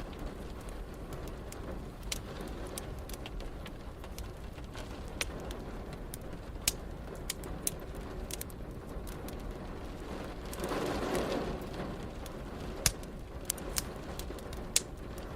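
Wood fire crackling with sharp pops scattered throughout, over a steady hiss of rain. A brief, soft swell of sound rises and fades about two-thirds of the way in.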